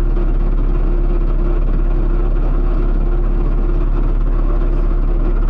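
Rally car engine idling steadily in neutral, heard from inside the cockpit: a loud, even, deep rumble with no revving.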